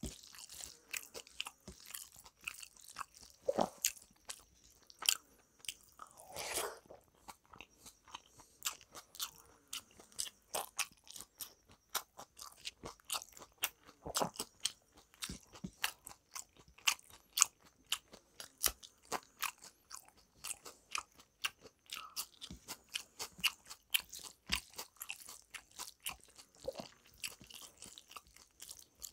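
A man chewing mouthfuls of rice and dal eaten by hand, with a dense run of wet mouth clicks and smacks. One longer, louder mouth sound comes about six and a half seconds in.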